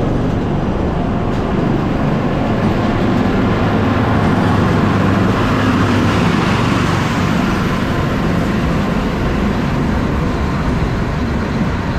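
Cog railway train climbing the mountain, heard from aboard: a steady, loud mechanical rumble with a low engine drone.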